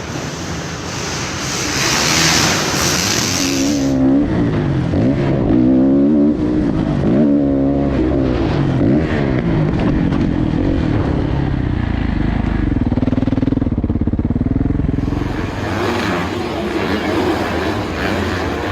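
Motocross bike engines revving, the pitch climbing and dropping repeatedly as the throttle opens and closes. For the first few seconds and again near the end a rushing, wind-like noise dominates.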